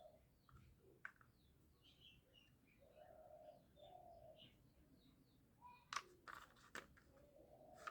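Faint background birds: small birds chirping and a dove cooing in two short bouts. A few sharp clicks come about a second in and around six seconds in.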